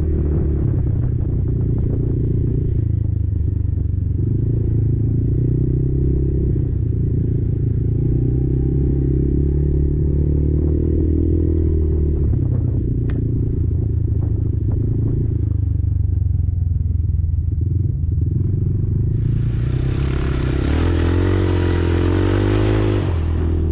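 Kymco Maxxer 300 quad's engine running under varying throttle, its note rising and falling, with rattling from the machine. About nineteen seconds in, a loud rushing hiss joins it for about four seconds.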